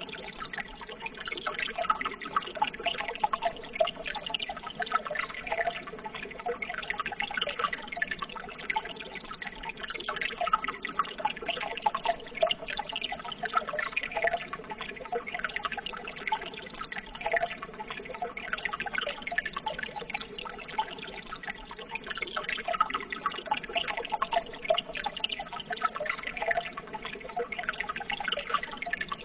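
Running water trickling and splashing steadily, a continuous babble flecked with many small drip-like plinks.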